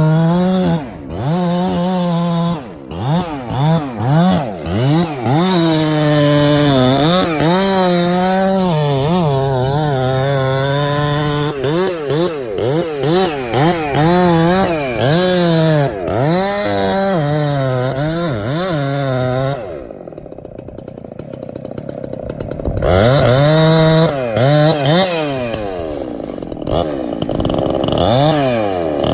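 Two-stroke chainsaw at high revs, its pitch repeatedly rising and falling as the throttle is worked. About twenty seconds in it drops to a low idle for roughly three seconds, then revs up again.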